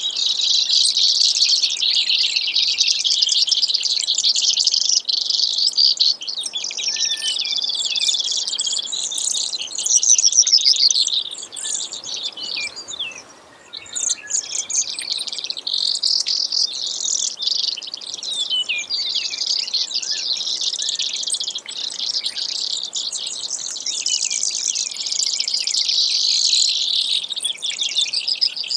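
Brewer's sparrow singing: a long, continuous run of fast, high trills and buzzy notes, with a brief pause about halfway through.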